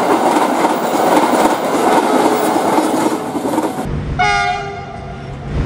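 Empty container flat wagons rolling past behind a KAI diesel locomotive, with a dense wheel-and-rail clatter. After a sudden change about four seconds in, a locomotive's multi-tone horn sounds one short blast over a low engine hum.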